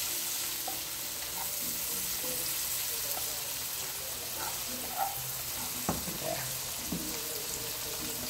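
Chopped onions and garlic sizzling steadily in hot bacon fat in a nonstick skillet while they are stirred with a plastic slotted spatula. From about five seconds in, the spatula scrapes and taps the pan a few times. Plantain slices frying in oil in a second pan add to the sizzle.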